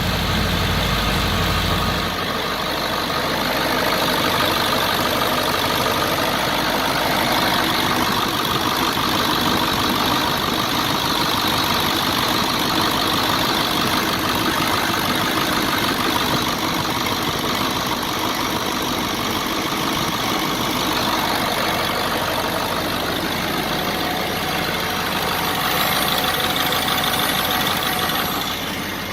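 1999 Ford 7.3L Power Stroke turbo-diesel V8 running steadily at idle, with its exhaust and intercooler piping disconnected. A heavier low rumble for the first two seconds, then an even, unchanging run.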